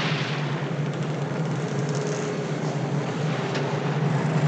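Steady rushing of wind and rough sea over a constant low hum.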